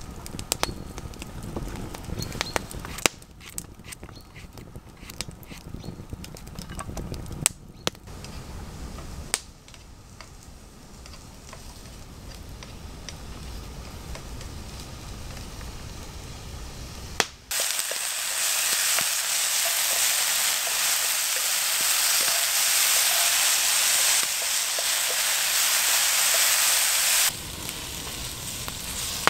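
Small wood fire crackling with scattered sharp pops. About two-thirds of the way through, mushrooms start frying in hot oil in a pan: a loud, steady sizzle that cuts off suddenly near the end.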